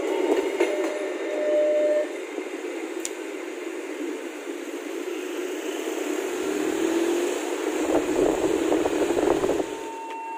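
Passenger train carriages rolling past on the track and moving away, a steady rushing rumble of wheels on rail that grows rougher for a few seconds late on.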